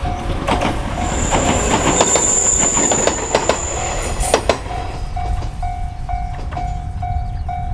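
Echizen Railway 7000 series two-car electric train passing close by, its wheels clicking over the rail joints with a thin high squeal, then gone by about four and a half seconds in. A bell-like tone repeats about twice a second, clearest after the train has passed.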